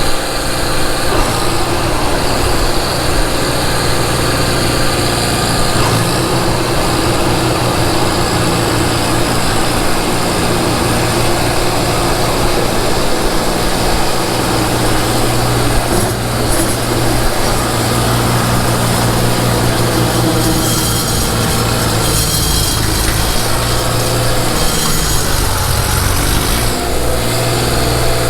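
Ford 1720 compact tractor's three-cylinder diesel engine running steadily at a constant speed, with a dense rushing noise over it.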